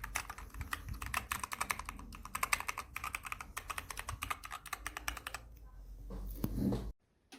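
Dierya T68SE 60% mechanical keyboard with clicky blue switches being typed on fast, a rapid stream of sharp keystroke clicks. The typing stops about five seconds in, a short low rumble swells, and the sound cuts off abruptly near the end.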